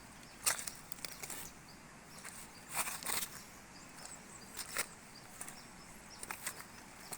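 Irregular footsteps, a series of short crunching scuffs at uneven intervals, over a faint steady outdoor hiss.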